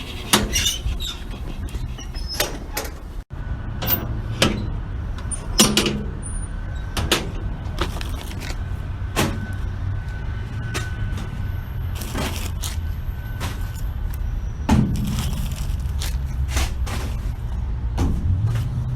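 Industrial grocery store baler running a compression cycle. The hydraulic pump hums steadily while the ram crushes the load with many irregular sharp cracks and pops. Near the end the pump's hum rises in pitch.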